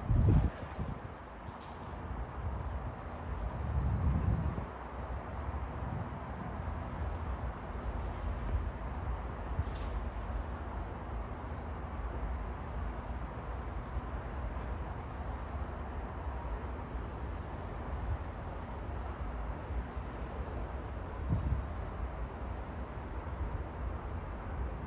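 Steady high-pitched chorus of insects such as crickets, with low rumbles of wind on the microphone near the start, about four seconds in and again near the end.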